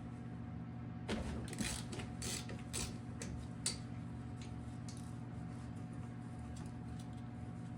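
Ratchet wrench clicking in a few short runs as a bolt is worked loose, with the loudest click about three and a half seconds in, over a steady low hum.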